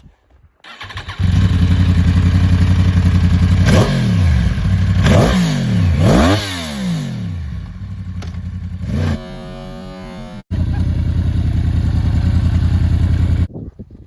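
Sport-bike engine with an Akrapovic slip-on exhaust, loud and held at high revs, then revved down and back up several times. The sound cuts off abruptly twice, as between separate clips.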